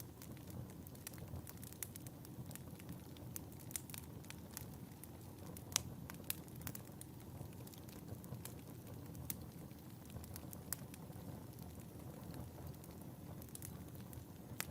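Wood fire burning in a fireplace: a low steady rumble of flames with irregular sharp crackles and pops, the loudest pop about six seconds in.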